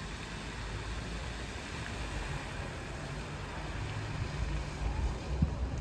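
Steady low rumbling noise, with a couple of short knocks near the end.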